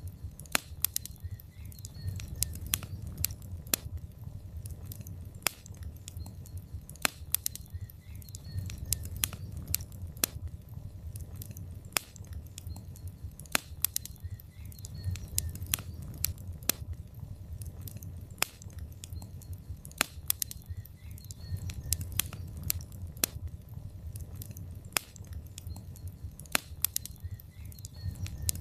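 Log fire in a fireplace crackling: sharp, irregular pops and snaps over a steady low rumble of the flames.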